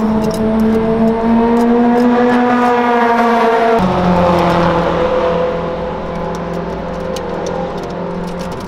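Toyota KP61 Starlet race car's four-cylinder engine with twin side-draft carburettors, running at raised revs that creep slowly upward, then dropping abruptly about four seconds in to a lower, steady idle.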